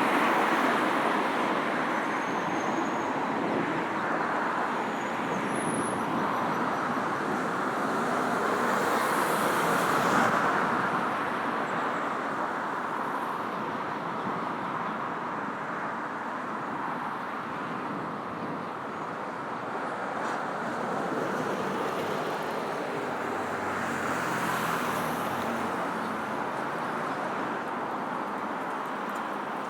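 Steady road traffic, cars going by in a continuous hum of engines and tyres, with a vehicle passing closer and louder about ten seconds in and another near the end.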